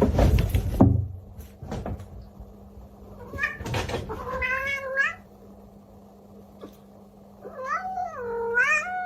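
A domestic cat meowing twice, each a long meow that bends up and down in pitch, the second running on past the end. Before the meows, a few knocks and a burst of clatter in the first two seconds.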